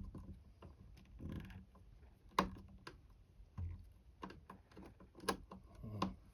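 Hand screwdriver and small screws being worked into a window frame: irregular sharp metallic clicks and taps, with a few duller knocks. The sharpest click comes about two and a half seconds in and another near five.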